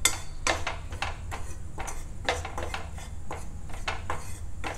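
A spoon stirring and scraping spice powders around a dry pan as they are toasted, a run of irregular scrapes against the pan.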